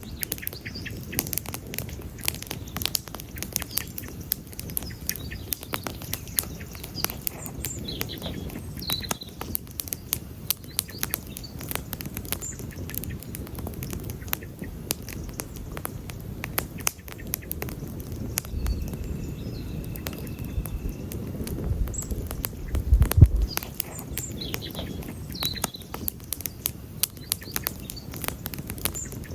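Wood campfire burning, crackling and popping steadily with many sharp irregular pops over a low rumble, one louder pop with a low thump a little after two-thirds of the way through. A few faint high chirps come through now and then.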